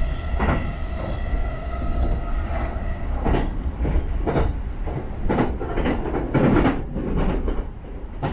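Electric commuter train running, heard from inside the car: a constant low rumble with wheels clacking over rail joints and points at irregular intervals, about once a second, loudest around two-thirds of the way through. A steady electric whine fades out within the first second.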